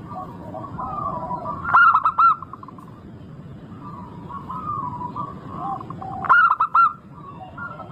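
Zebra doves (perkutut) singing, several birds overlapping in a steady run of cooing notes. Twice, about two seconds in and again about six and a half seconds in, a loud quick group of three or four arched notes rises above the rest.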